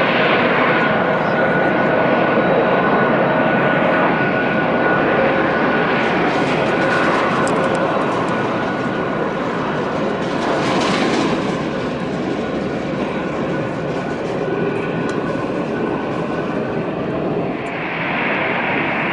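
J-AIR regional jet landing, its jet engines running with a steady noise and several whining tones. A hissing rush swells around the middle, then the sound eases and the whine fades.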